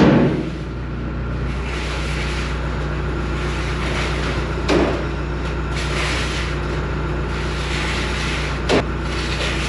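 Tractor engine running steadily, with three sharp clunks: one at the start, one about halfway through and one near the end.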